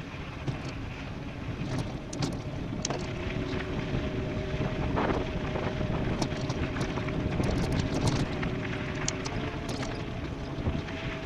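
Wind rushing over the microphone and tyres rolling on a fast e-bike descent, with scattered sharp ticks. A steady two-tone whine comes in about three seconds in.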